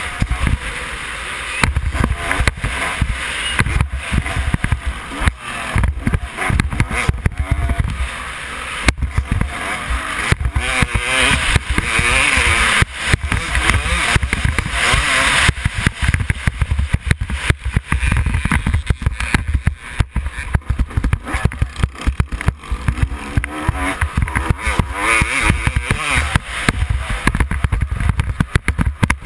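Motocross dirt bike engine running hard at race speed, its pitch rising and falling, with frequent sharp knocks and buffeting over a constant low rumble.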